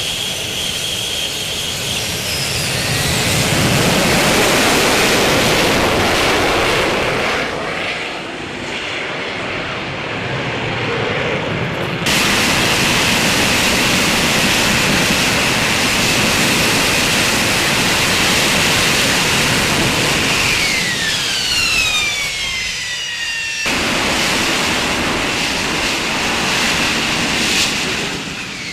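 AV-8B Harrier II jump jet's Pegasus turbofan engine running loud, a steady rush of jet noise under a high whine. The sound changes abruptly twice, and the whine glides down in pitch twice, the second time near the end.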